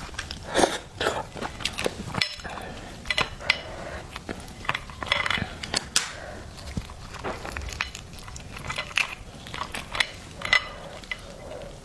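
Close-miked eating of steamed lobster: irregular crunches, clicks and wet chewing, with no steady rhythm.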